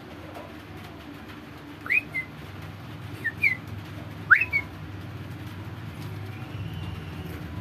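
A bird calling three times: short, quick rising whistles, each followed by a brief second note, over a steady low background hum.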